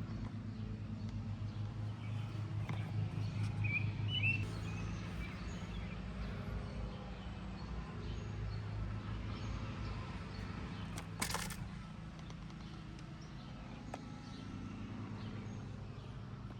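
Outdoor background with a steady low hum and a few short bird chirps about three to four seconds in. A brief sharp rustle or click comes about eleven seconds in.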